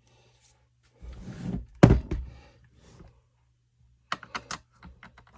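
Handling noises at a workbench: a short scrape that ends in a sharp thunk about two seconds in, then a quick run of light clicks near the end.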